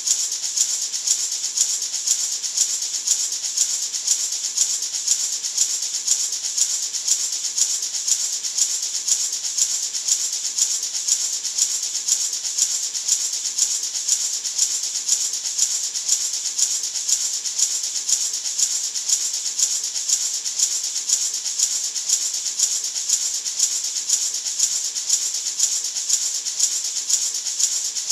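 Gourd maraca shaken continuously in a steady, even rhythm, its seeds giving a bright, hissing rattle used as white noise for sleep.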